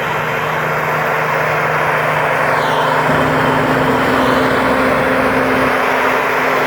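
Thai Seng rice combine harvester running steadily under load while harvesting: the turbocharged Hino J2 engine's steady drone under a dense, even mechanical noise. About two and a half seconds in, a faint high whine briefly dips and rises.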